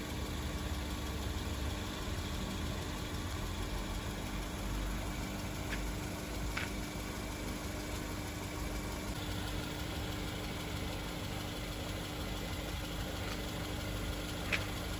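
Mitsubishi Xpander's 1.5-litre four-cylinder petrol engine idling steadily, with a few faint clicks.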